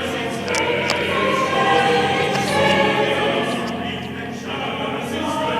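A choir singing, many voices holding long notes.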